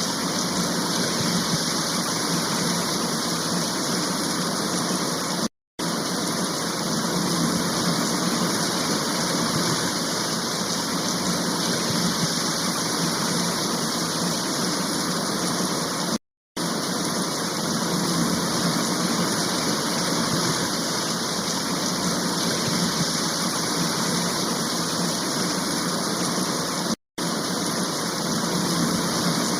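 Rushing floodwater, a steady loud roar of water, cut off by three short silent gaps where the clips are joined.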